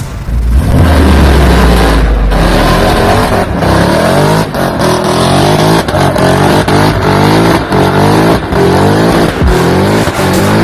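Supercharged 4.6 V8 of a 1968 Ford F100 race truck, running loud: a deep steady rumble for about two seconds, then revving again and again, the pitch climbing and breaking off sharply each time.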